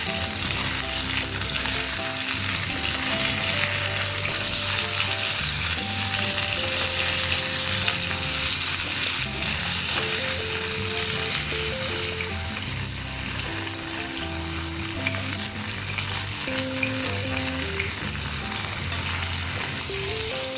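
Marinated parrot fish pieces frying in hot oil in a pan, a steady sizzle as the first side cooks.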